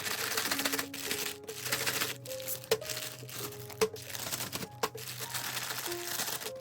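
A plastic zip bag crinkling and rustling as it is shaken, coating chopped potatoes in flour, with soft background music playing.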